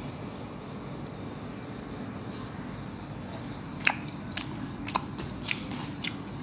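A person eating a piece of jhal dim pitha close to the microphone. A string of sharp chewing clicks, about two a second, starts in the second half, over a steady low background hum.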